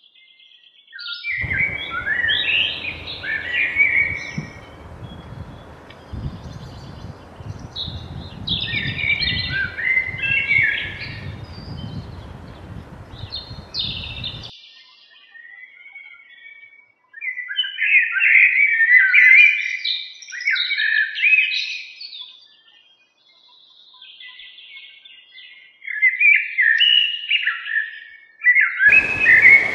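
A songbird singing, repeating short phrases of quick chirps that fall in pitch, several seconds apart. Under the first half there is a low, steady outdoor noise that cuts off abruptly about halfway through.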